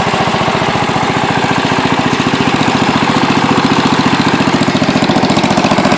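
Allis-Chalmers Big Ten garden tractor's Briggs & Stratton single-cylinder engine running steadily at idle with an even, rapid pulse, growing slightly louder in the second half.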